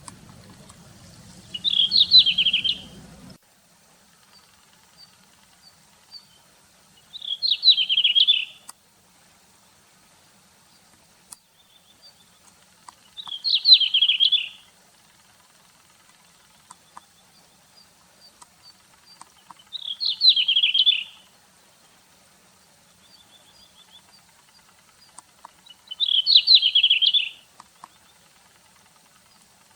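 Red-flanked bluetail singing: five short warbled song phrases, each about a second and a half long, spaced about six seconds apart, with faint soft call notes between them.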